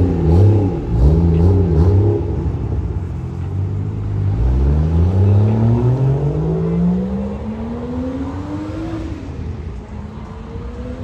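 Car engine revved in three quick blips, then accelerating hard in one long pull, its pitch climbing for about four seconds before the throttle lifts.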